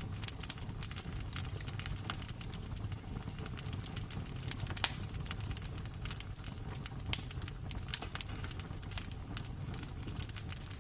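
Wood fire crackling in a fireplace: a steady run of small snaps and clicks over a low steady rumble, with two louder pops about five and seven seconds in.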